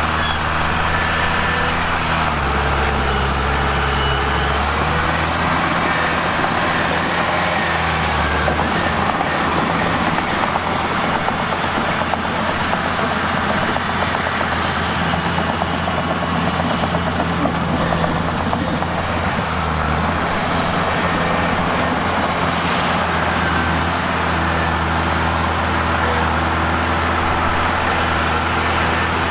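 Mitsubishi crawler bulldozer's diesel engine running steadily, its pitch stepping up and down a few times as it works, with a rougher, noisier stretch in the middle.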